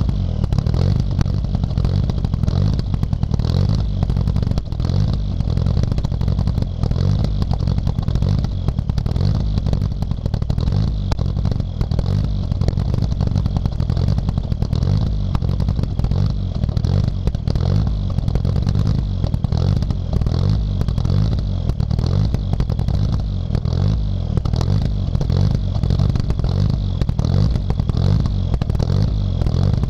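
Mitsubishi Lancer Evolution III's turbocharged 4G63 four-cylinder engine running at idle with a lumpy, pulsing beat. The owner takes the beat for the rally ECU cutting cylinders in and out at idle to keep the engine cool.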